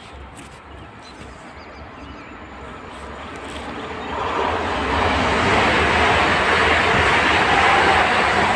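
PKP Intercity electric multiple unit approaching and passing close by on the rails. The noise of the train builds, turns loud about four seconds in, and stays loud as the cars roll past.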